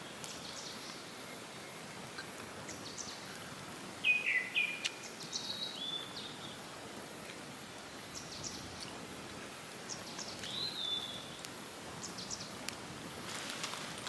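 Wild birds calling in short, scattered chirps over a steady outdoor hiss. The loudest are a pair of quick falling chirps about four seconds in and a rising whistled note later on. A few short clicks come near the end.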